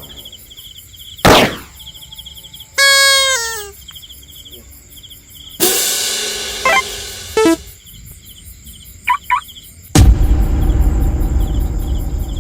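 Crickets chirping steadily under a string of added sound effects: a whoosh, a short falling run of tones, a noisy burst with blips, two quick blips, then a loud low rumble from about ten seconds in.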